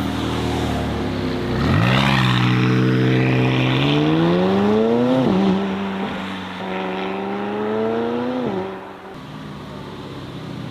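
A car engine accelerating away. It revs up sharply about two seconds in, and its pitch climbs until a gear change drops it a little past halfway. It climbs again and drops at a second shift near the end, then gets quieter.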